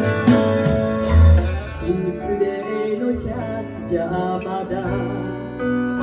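Live band playing the instrumental introduction of a song: guitar strumming over bass notes, with a melody line carrying over it.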